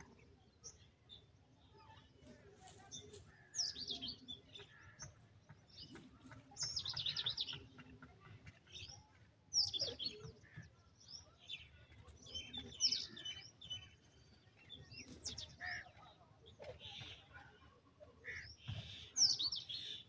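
Birds chirping: clusters of short, high chirps, each falling quickly in pitch, coming every few seconds.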